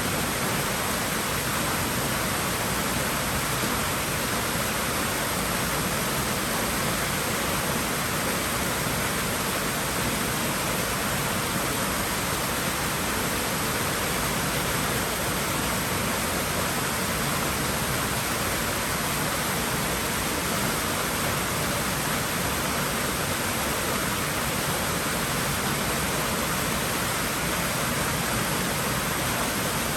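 Water moving in a swimming pool, a steady even rush with no distinct splashes or breaks.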